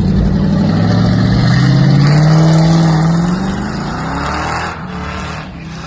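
A car accelerating: its engine climbs steadily in pitch for about three seconds, then the sound fades as the car pulls away.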